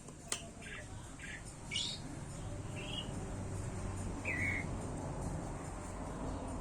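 A bird chirping: about six short, separate chirps, with a single sharp click just after the start.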